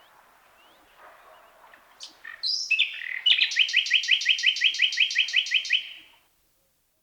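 Common nightingale song phrase: a few sharp whistled notes, then a loud, fast series of identical repeated notes, about six a second, that stops abruptly near the end.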